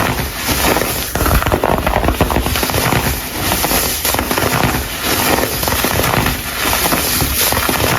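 Dried, coloured baking soda crumbles being crushed: a dense, crisp crunching crackle that swells and eases again about once a second, as if squeezed in repeated strokes.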